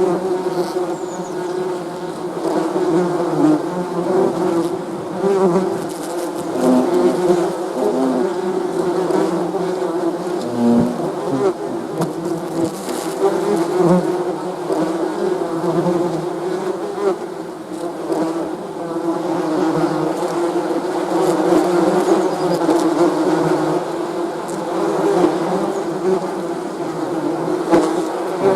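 Bees buzzing: a steady, dense drone of many overlapping wavering buzzes.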